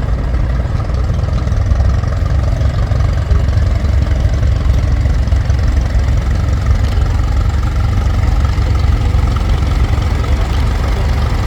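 Tractor engines running steadily as the tractors move in the parade, a continuous low rumble.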